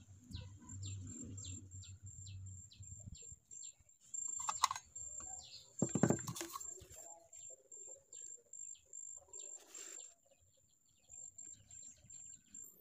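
Faint outdoor ambience: a small bird chirping over and over, about three short chirps a second, with a thin steady high tone behind it. A few brief louder knocks and rustles come from handling the PVC pipe, the loudest about six seconds in.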